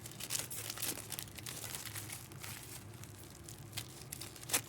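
Plastic wrapping crinkling as it is handled, in scattered small crackles and clicks, with one sharper click just before the end.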